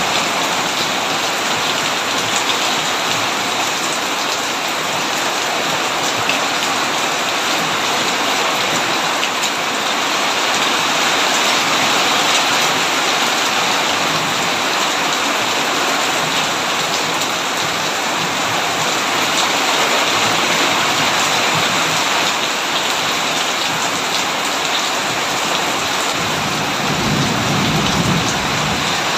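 Heavy rain beating steadily on a tin roof, a dense even hiss. A low rumble of thunder swells near the end.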